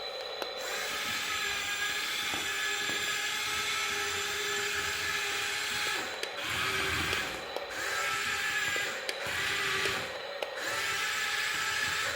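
Small electric gear motor of a remote-control toy vehicle whining steadily. Its pitch shifts several times in the second half as the motor is driven on and off.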